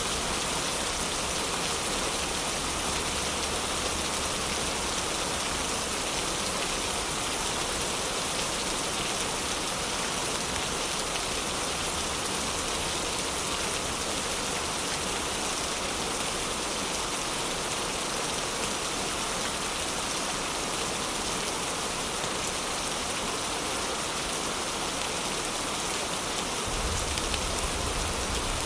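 Heavy rain falling steadily: an even, dense hiss of drops.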